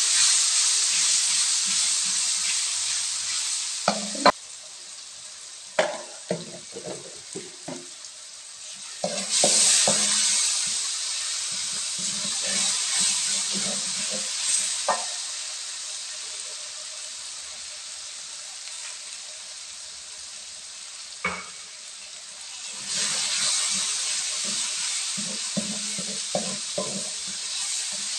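Chopped garlic, shallots and chillies sizzling in hot oil in an aluminium wok while a wooden spatula stirs and scrapes them. The sizzle comes in waves, loud at the start, again about nine seconds in and again near the end, with spatula knocks and scrapes in between. This is the spice base frying until fragrant.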